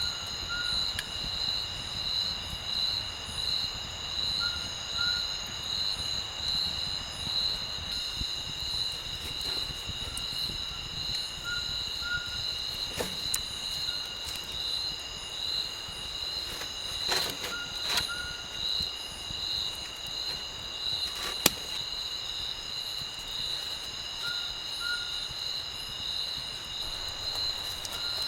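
Steady insect chorus of crickets or cicadas: a high, evenly pulsing drone with several held tones above it. A few sharp cracks or clicks stand out, the loudest about three quarters of the way in.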